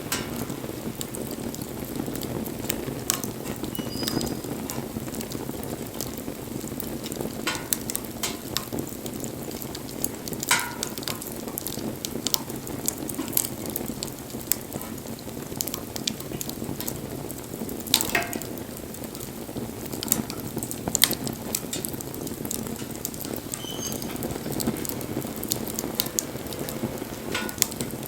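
Wood campfire burning with a steady rushing hiss and irregular crackles and sharp pops from the burning wood.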